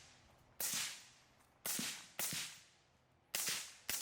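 Five carbine rifle shots with a short echo after each, the last four coming as two quick pairs about half a second apart.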